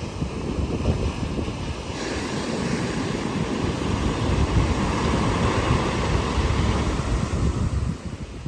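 Wind buffeting the microphone over the rushing of ocean surf, with the hiss growing fuller about two seconds in.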